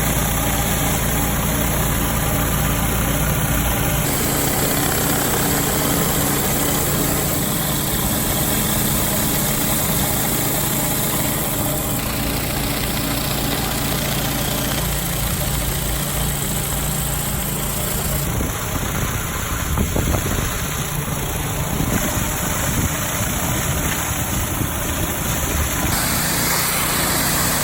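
Pressure-washing equipment running: a steady engine hum under the hiss of high-pressure water spraying. The sound shifts abruptly every few seconds as one clip cuts to the next.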